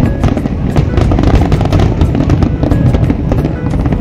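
Fireworks display in full barrage: many rapid, overlapping bangs and crackles over a continuous rumble, with music playing alongside.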